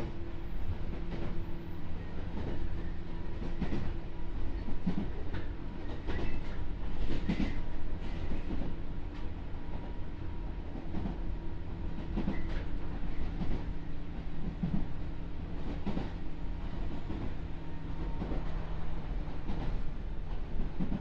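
Inside a JR 201 series electric commuter train running along the line: the wheels clack over rail joints about once a second, over a steady hum from the running gear that fades near the end.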